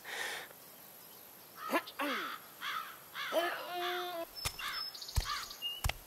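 Cartoon sound effects: a string of short, rising-and-falling voice-like calls starting a little under two seconds in, then a held two-note tone, then a few sharp clicks near the end.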